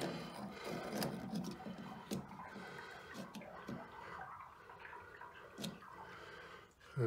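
Faint handling sounds of a pipe being measured: a few light knocks and clicks over low rustling.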